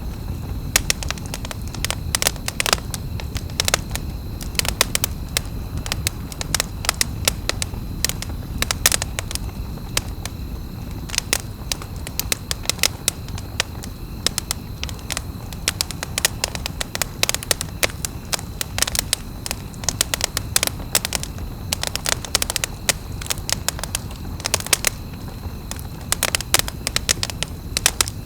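Wood campfire crackling, with many sharp irregular pops over a steady low rumble.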